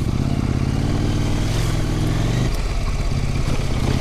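Husqvarna Norden 901 adventure motorcycle's parallel-twin engine running at a steady low speed on a dirt trail. The throttle eases off about two and a half seconds in.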